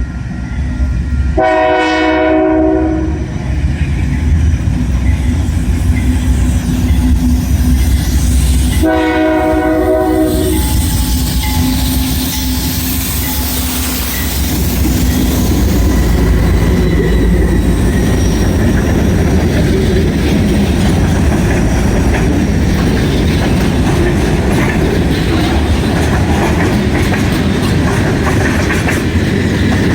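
Diesel freight train with two locomotives sounding two short blasts of its air horn, one about a second in and another near ten seconds, over the low rumble of the engines. The train then runs past close by, its wheels clacking over the rail joints.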